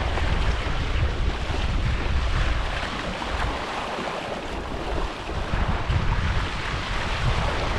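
Wind buffeting the microphone in uneven gusts over water lapping and splashing.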